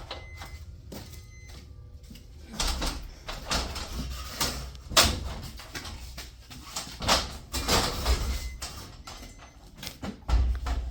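Irregular metallic knocks and clanks of tools and hardware on a garage door torsion shaft's cable drum while it is being loosened. The knocks begin about two and a half seconds in.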